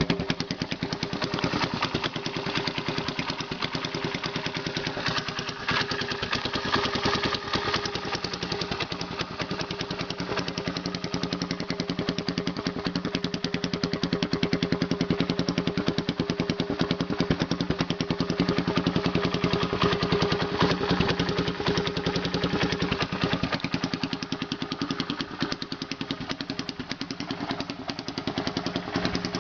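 1974 Honda XL175 single-cylinder four-stroke motorcycle engine idling steadily through an improvised exhaust pipe bent from 1-inch electrical conduit (EMT), which gives it a higher note than the stock exhaust.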